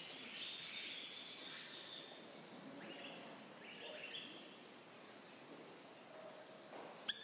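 Birds chirping: a quick run of short, high twittering notes in the first two seconds, then a few fainter, lower calls about three to four seconds in. A single sharp click comes just before the end.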